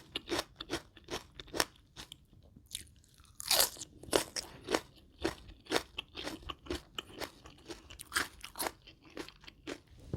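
Close-miked chewing of crunchy food, an irregular run of crisp crunches about two or three a second, with one louder bite about three and a half seconds in.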